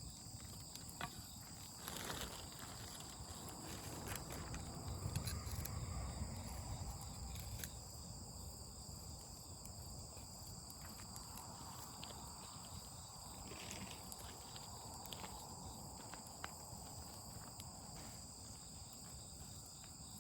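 Crickets trilling steadily in several high pitches, with scattered sharp crackles and pops from a wood campfire. A low rumble swells about four seconds in and fades by seven.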